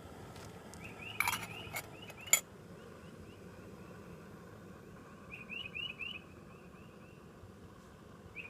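A bird calling in quick runs of four or five high chirps, twice, with pauses between the runs. Two sharp knocks come about a second and two and a half seconds in; the second is the loudest sound.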